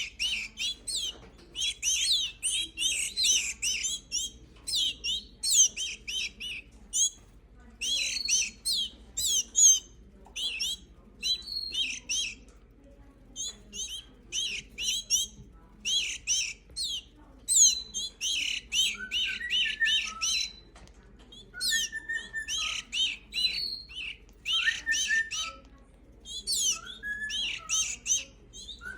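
Young canaries chirping in quick, high-pitched bursts, many calls overlapping, with short gaps between bursts. Lower, shorter notes join in during the second half.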